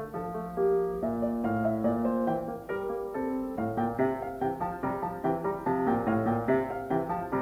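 Background piano music, a melody of many quick notes over a lower accompaniment.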